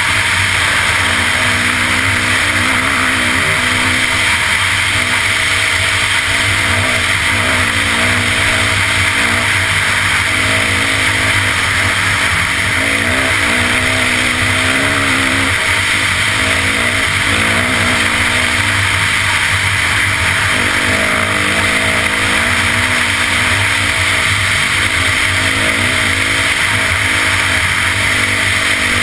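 Dirt bike engine running under way on a trail ride, its pitch rising and falling with the throttle, over a steady rushing noise.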